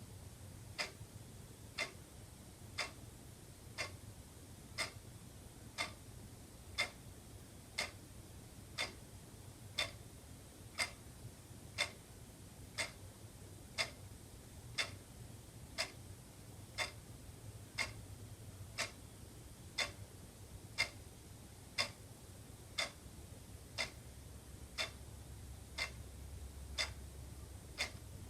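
Wall clock ticking steadily, one sharp tick about every second, over a faint low hum.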